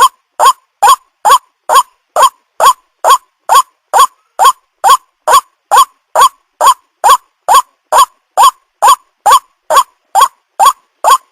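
White-breasted waterhen calling: an even, unbroken series of short notes, a little over two a second, each rising slightly in pitch.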